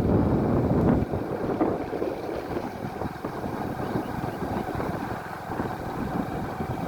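Rushing water of a rain-swollen river in flood, a steady noise, with wind buffeting the microphone heavily for about the first second.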